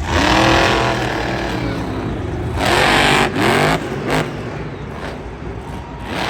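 Monster truck engine revving hard in loud surges: two long blasts of throttle and a short jab, its pitch sweeping up and down between them.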